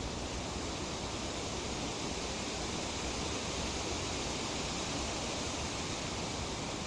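Breeze rustling through tree leaves: a steady, even hiss with no separate gusts or sounds standing out.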